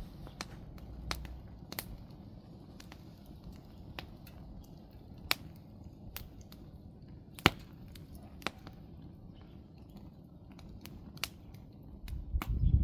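Wood campfire crackling: irregular sharp pops and snaps over a low, steady rush, with one louder pop about halfway through. A louder low rumble comes in near the end.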